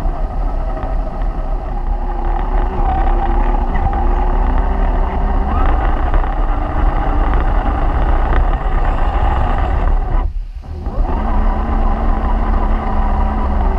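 Whine of a radio-controlled scale crawler truck's electric motor and gears, its pitch shifting with the throttle. The sound drops out briefly about ten seconds in.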